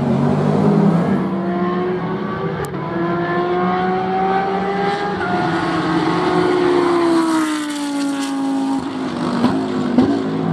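Racing car engine running hard on track, its pitch rising through a gear with a change about five seconds in, then falling away steeply as the car goes past. A couple of sharp cracks follow near the end.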